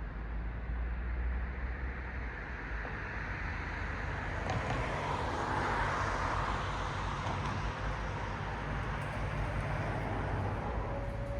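Road traffic: a car passes, its tyre noise swelling to a peak about midway and fading again over a steady low rumble. A faint steady hum joins near the end.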